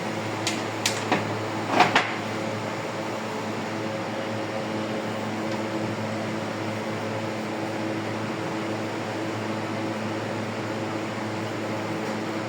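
Steady mechanical hum of a running motor or fan, with a few sharp clicks and knocks in the first two seconds.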